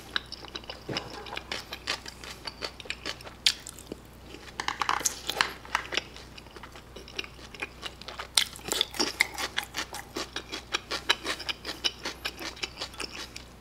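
Close-miked chewing of a mouthful of fried pork in kimchi sweet-and-sour sauce with melted cheese. It comes as a steady run of short mouth clicks, thicker in the second half.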